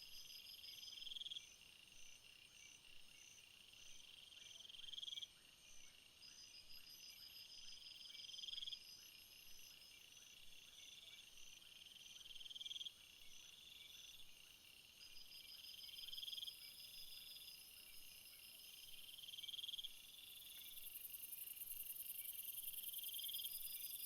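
Faint insect chorus: cricket-like trills, with one call that swells and stops abruptly every three to four seconds, and a high shrill buzz that grows louder near the end.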